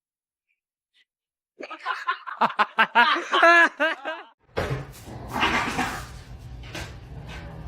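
A person laughing in quick bursts, starting about a second and a half in; about four and a half seconds in it cuts off abruptly to a noisy background with a low steady hum and a few clicks.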